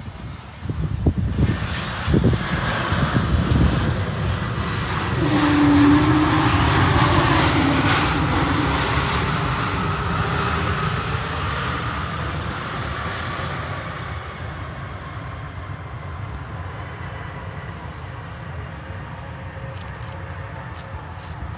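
Airbus A380 jet engines running. The noise swells over the first several seconds and then slowly fades away, with a few faint clicks near the end.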